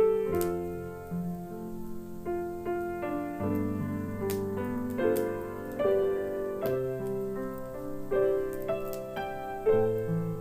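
Solo piano playing a slow, gentle ballad arrangement with sustained chords and a melody line, over the faint sharp crackle of a fireplace.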